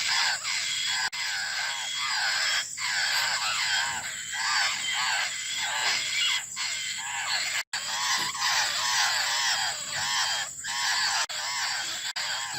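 Young laughingthrushes giving rapid, repeated begging calls to be fed, several birds overlapping in a continuous chorus. The calls break off for an instant about halfway through.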